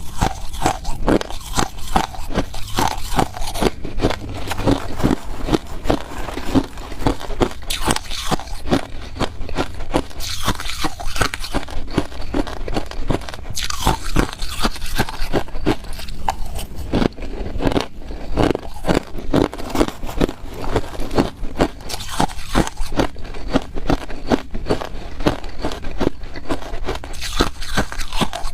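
Ice being bitten and chewed close to the microphone: rapid, continuous crunching and cracking, several bites a second.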